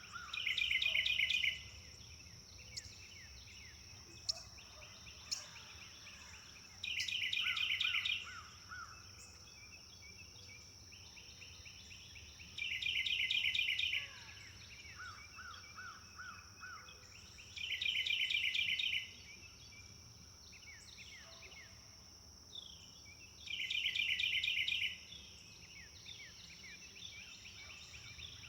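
A songbird repeats a short, rapid trill about every five to six seconds, five times in all. Softer chirps and short note series from other birds fill the gaps, over a steady high-pitched whine.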